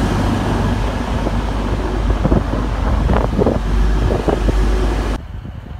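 TransPennine Express passenger train alongside the platform, its low steady drone mixed with wind buffeting the microphone and a few short knocks midway. The sound cuts off abruptly about five seconds in.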